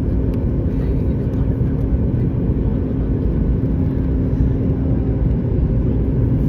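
Steady cabin noise inside a Boeing 737-9 MAX, its engines and airflow making a constant low rumble with a steady hum.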